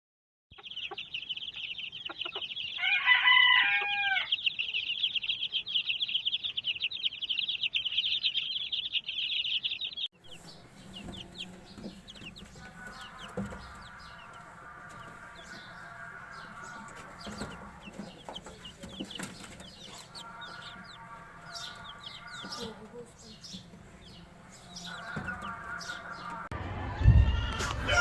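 Many small caged birds chattering together in a dense, high chirping, with a few falling calls about three seconds in. After a sudden change about ten seconds in, the chatter gives way to quieter, longer, repeated bird calls.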